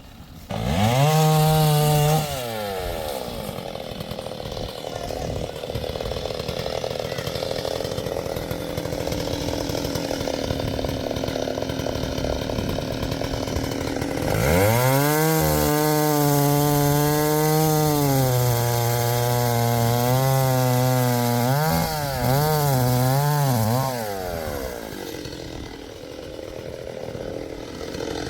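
STIHL MS 381 two-stroke chainsaw revving, briefly about a second in, then running rough and noisy as if in the cut. From about halfway it holds at high revs with the pitch sagging and recovering, gives several quick rev blips, and drops back near the end.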